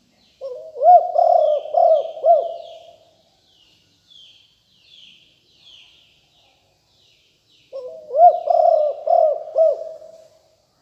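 Spotted dove cooing in two bouts, one just after the start and one about three quarters of the way through, each a run of rolling, arched coos. Small birds chirp high and thin throughout.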